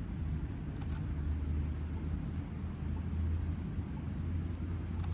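Steady low outdoor rumble, with a faint click about a second in and another near the end.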